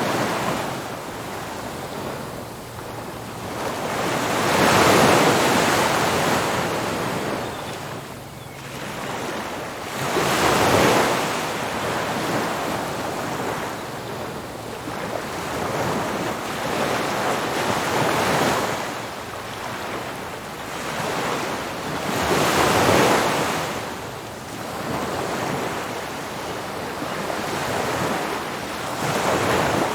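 Ocean surf breaking on a beach: a continuous rushing wash that swells as each wave breaks, roughly every five to six seconds, loudest about five, eleven and twenty-three seconds in.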